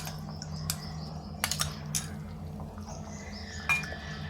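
A metal spoon clinking against a small dish several times at irregular moments while cornflour is stirred into water for a slurry, over a steady low hum.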